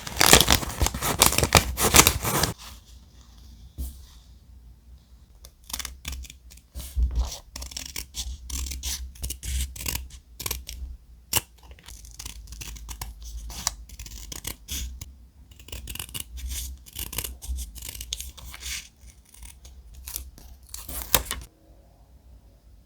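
Thick paper being handled: loud dense crackling for the first two and a half seconds, then softer, irregular rustling and scratching strokes of paper that stop about a second before the end.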